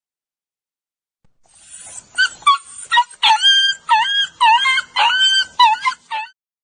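An animal's high whining cries: about a dozen short calls, each rising and falling in pitch, starting about a second and a half in and stopping suddenly near the end.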